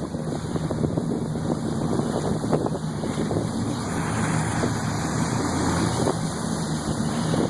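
Motorboat engine running steadily underway, with water rushing past the hull and wind buffeting the microphone in irregular gusts.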